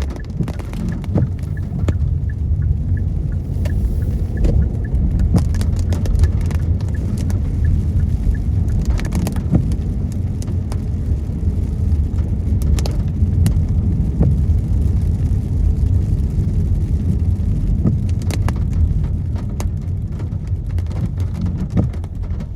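Car driving on a rain-wet road, heard from inside the cabin: a steady low rumble from the road and engine, with scattered light taps of raindrops on the glass.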